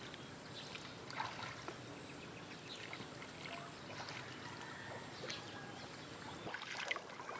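Outdoor rural ambience: a steady high-pitched buzz that swells and fades about every one and a half seconds, with scattered light clicks and ticks.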